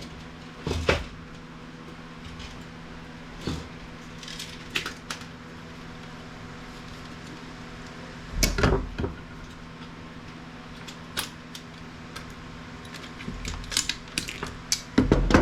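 Scattered clinks and clatters of metal and plastic parts being handled and pulled apart while dismantling computer network equipment, with a louder clatter about eight and a half seconds in and a quick run of them near the end. A steady low hum sits underneath.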